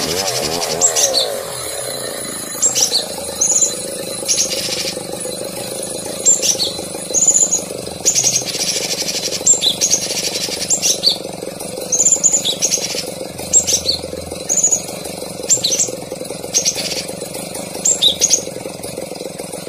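A songbird repeating short, sharp, high chirps in quick clusters about once a second, over a steady low hum.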